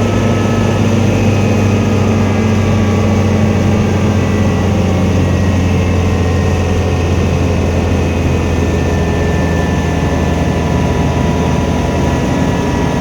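Helicopter running: a loud, steady, even drone with a strong low hum.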